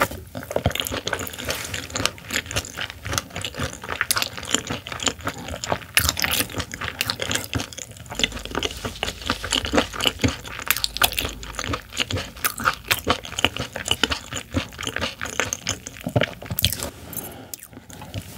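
Close-miked chewing of raw silver pomfret (butterfish) sashimi: a dense, irregular run of small wet clicks and crunches.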